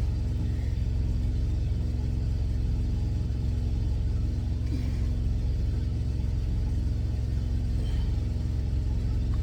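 Semi truck's diesel engine idling: a steady low rumble with an even hum, heard from inside the cab.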